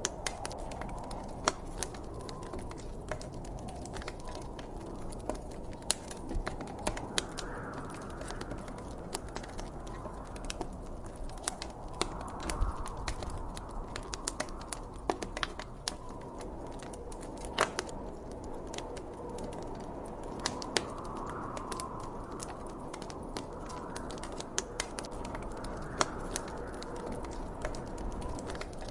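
Wood fire crackling, with frequent sharp irregular pops from the burning logs, over a soft wind that rises and falls in gentle gusts every few seconds.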